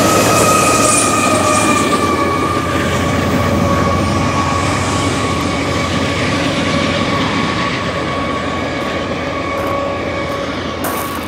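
Rear of a freight train rolling past and moving away: autorack cars and a trailing locomotive, with a steady high whine over the rumble. The whine drifts slightly lower and the whole sound slowly fades.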